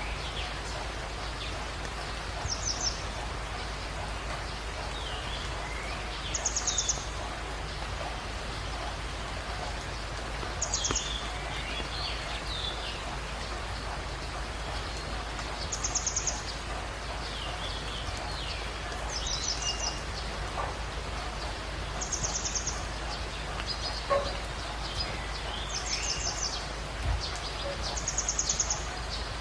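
Birds calling over a steady hiss: one bird repeats a short, high, rapid trill about every three to four seconds, eight times, with softer, lower chirps from other birds in between.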